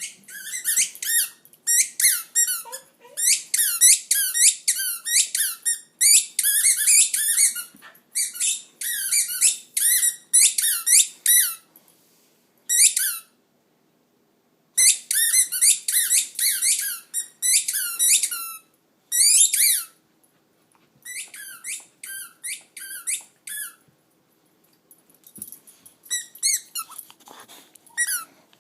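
Boxer dog whining in rapid, high-pitched squeals, several a second, in long runs broken by short pauses.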